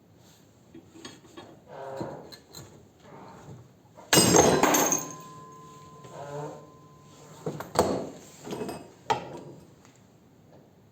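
Metal clanks and knocks from a pulley puller being worked on a stuck engine pulley, with one loud metallic bang about four seconds in that rings briefly.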